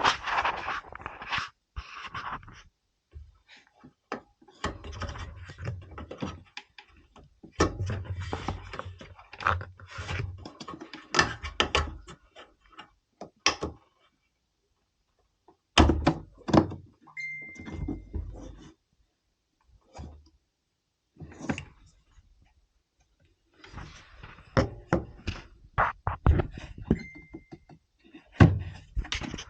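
Clunks, knocks and rattles of plastic and metal parts being worked loose while the detergent dispenser of a washing machine is taken apart, in bursts with short pauses. Twice a short high squeak.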